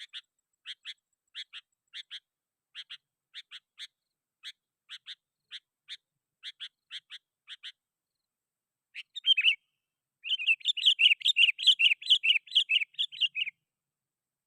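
Sooty-headed bulbul (kutilang) calling: short chip notes in pairs and threes. After a pause comes a brief loud phrase, then about three seconds of rapid, louder chattering song that stops about a second before the end. This is a lively 'gacor' bird calling out to rivals.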